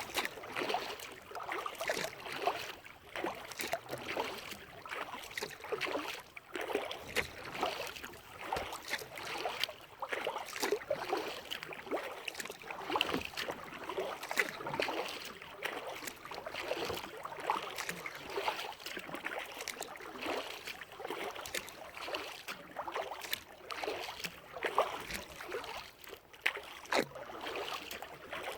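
Water splashing and trickling around a kayak being paddled: an irregular patter of small splashes and drips from the paddle and water against the hull.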